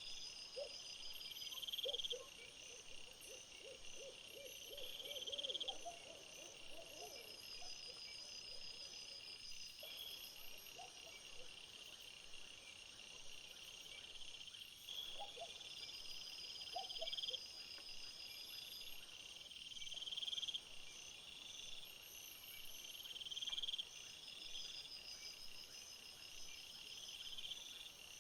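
Insects chirring steadily in several pulsing, high-pitched layers. Over them, a low series of short calls speeds up over the first few seconds, with a few more short runs later.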